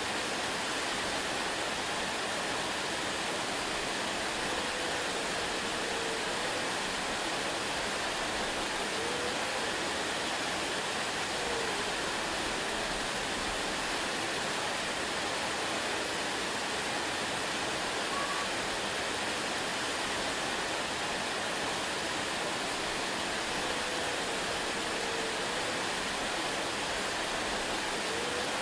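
Waterfall: a steady, even rush of falling water with no pauses.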